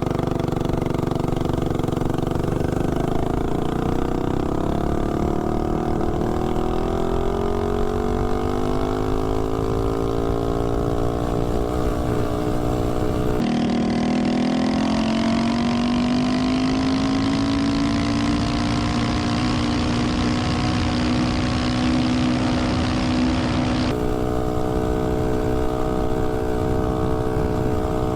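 Tillotson 212 single-cylinder four-stroke engine on a mini bike at full throttle on a top-speed run, its pitch climbing steadily as speed builds and then levelling off near the top. The engine runs on a 20% nitro fuel blend. The sound jumps abruptly about 13 and 24 seconds in.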